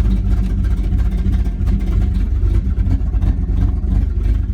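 355 cubic-inch Chevrolet small-block V8 idling steadily.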